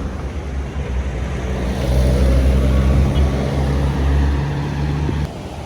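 Diesel engine of an intercity bus passing close by: a low, steady drone that builds about a second in, holds, and drops off suddenly near the end.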